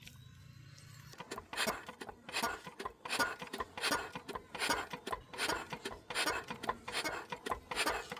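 Rhythmic scraping strokes, one about every three-quarters of a second, starting about a second in. A low steady hum comes before the strokes begin.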